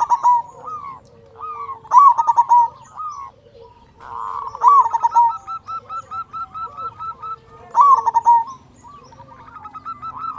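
Zebra dove (perkutut) cooing loudly in repeated bursts of short staccato notes, a new phrase every two to three seconds, with a run of quick even notes in the middle. Fainter high chirps sound behind it.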